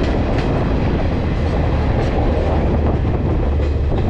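Moving passenger train heard from aboard: a steady rumble of the coaches running on the track, with a few faint clicks from the wheels over the rails.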